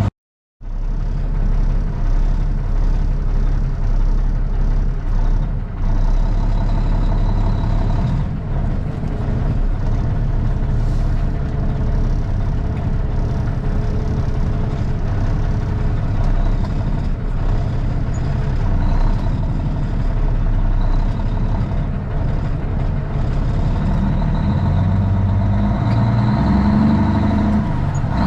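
Straight-piped Cummins ISX inline-six diesel in a Kenworth T800 running with a steady, deep drone, heard from inside the cab. After a half-second dropout at the start the engine runs at an even pitch, and over the last few seconds the note climbs as it revs up.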